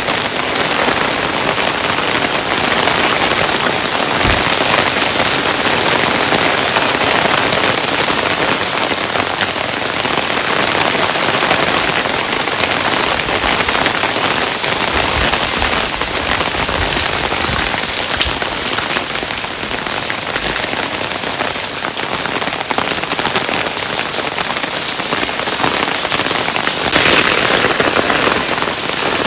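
Hailstones falling steadily on a hard surface: a dense, continuous pattering of countless small impacts. A few deeper thuds come through now and then, and it swells slightly louder near the end.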